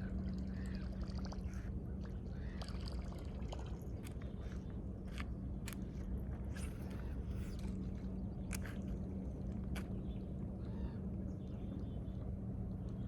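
A steady low hum with a constant tone, with scattered faint clicks and a few short chirps over it.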